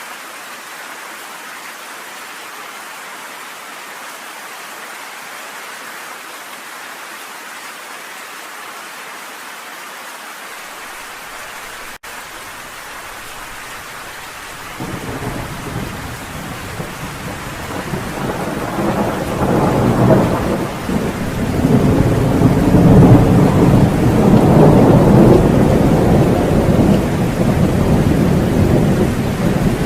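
Steady heavy rain. About halfway through, a thunder rumble breaks in suddenly and builds into long, loud rolling thunder over the rain.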